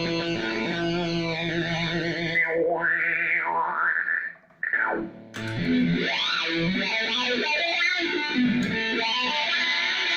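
Electric guitar played through fuzz and modulation effects pedals, giving a distorted, effect-laden noise with swooping pitch glides up and down. The sound briefly drops almost out about four and a half seconds in, then comes back.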